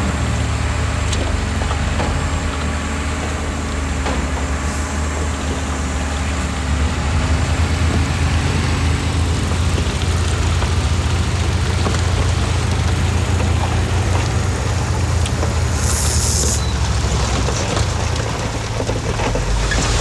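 Diesel engine of heavy earthmoving machinery running steadily with a deep low hum, and a short hiss about three-quarters of the way through.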